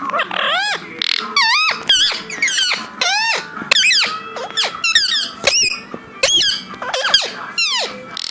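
A parrot calling over and over: a rapid string of short, shrill squawks that sweep up and down in pitch.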